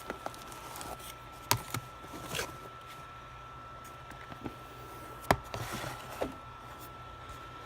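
Trading cards and their packaging being handled: a sharp click about a second and a half in and another about five seconds in, with soft rustles of packing between.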